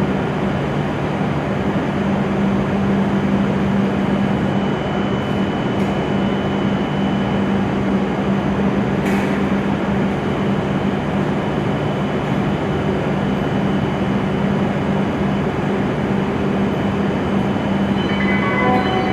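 Shinkansen train standing at the platform, its onboard equipment running with a steady low hum and a fainter high whine over an even rushing noise.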